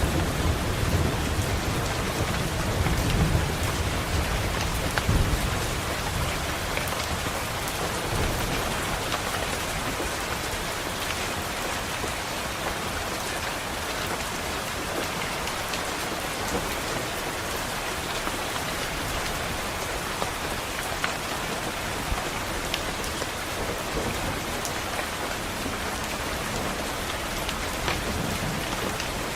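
Steady rain falling, with a low rumble of distant thunder in the first few seconds that dies away.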